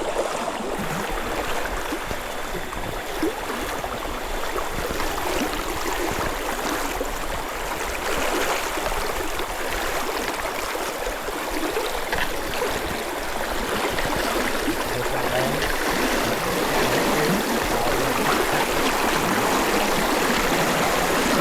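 Steady rush of flowing water from a stream or cascade, getting a little louder over the second half.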